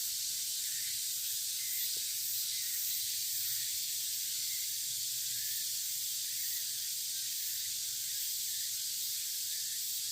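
A steady high-pitched hiss of outdoor ambience, with faint short chirps repeating throughout.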